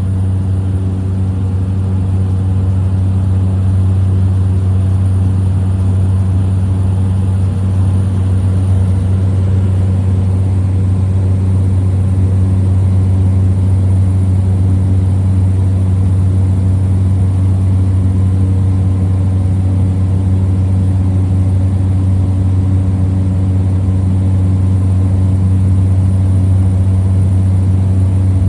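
Small plane's piston engine and propeller droning steadily, heard from inside the cabin.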